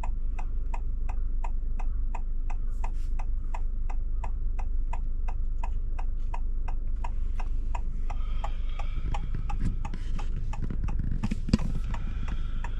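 Car turn-signal indicator ticking steadily, about three clicks a second, over the low hum of the cabin; the ticking stops about seven seconds in. A single sharp knock comes near the end.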